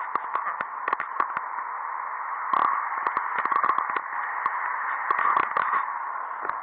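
Steady, narrow static-like hiss with many scattered sharp clicks and crackles.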